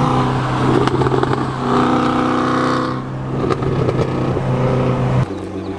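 Performance car exhaust with the engine held at a steady speed, swelling fuller for about a second in the middle, then dropping abruptly to a quieter engine sound near the end.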